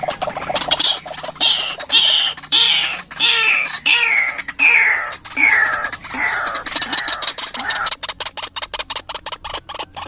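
White-breasted waterhen (ruak-ruak) calling: a run of loud notes about two a second, each falling in pitch. About seven seconds in, the notes give way to a fast train of clicks.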